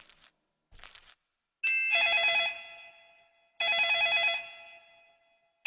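Telephone ringing: two trilling rings of just under a second each, about two seconds apart, after a couple of short clicks.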